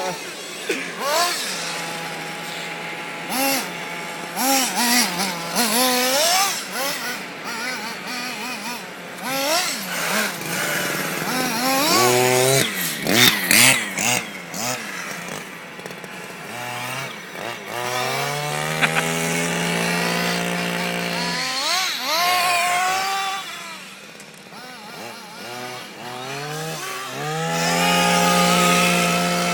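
Electric motors of radio-controlled toy cars whining, rising and falling in pitch over and over as the cars speed up and slow down, with scattered knocks along the way.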